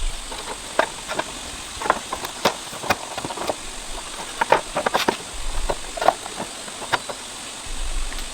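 Irregular light knocks and clicks, a few to several a second, with a couple of brief low rumbles.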